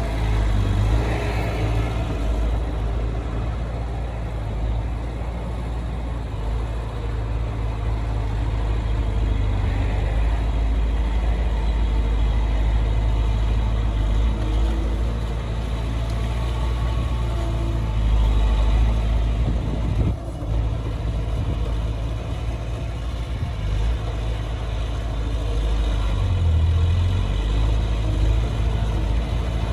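Diesel engine of heavy earthmoving machinery running steadily, with a brief dip about two-thirds of the way through.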